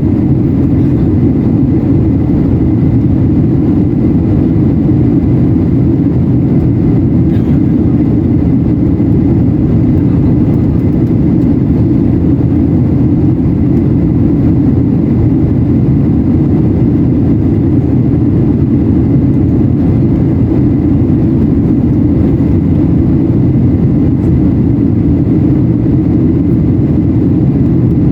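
Steady cabin noise inside a Boeing 737-800 in descent: a constant low rumble of the CFM56 jet engines and air rushing past the fuselage, with a faint thin whine above it.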